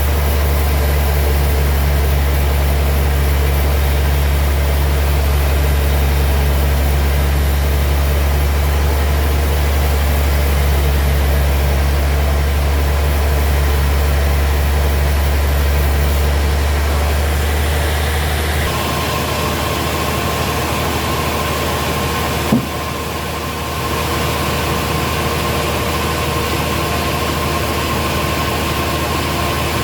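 Sawmill machinery running with a steady low-pitched drone. About two-thirds of the way through, the low drone drops away and a steady higher whine takes over, with a single sharp knock a few seconds later.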